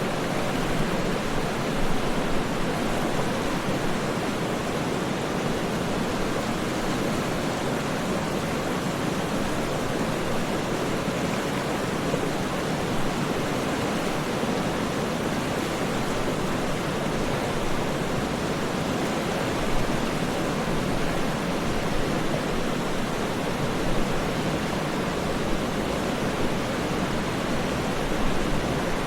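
Waterfall: a steady, dense rush of falling water with no breaks.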